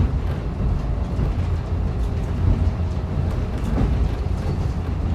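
Running noise heard inside a diesel railcar: a steady low rumble of the engine and wheels on the rails.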